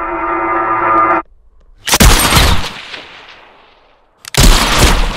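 A swelling musical drone cuts off suddenly about a second in. Two loud bursts of gunfire follow, about two and a half seconds apart, each dying away in a long echo.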